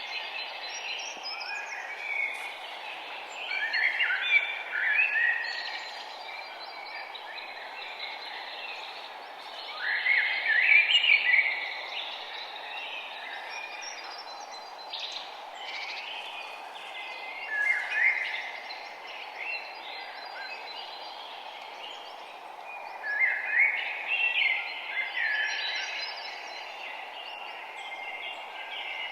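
Songbirds singing, a few bursts of quick chirping phrases over a steady, even background hiss.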